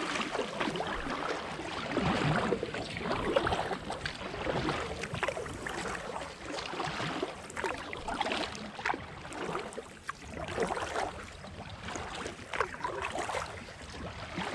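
Kayak paddle strokes: the blades dip and splash in the river in an uneven rhythm, a stroke about every one to two seconds, with water dripping off the paddle.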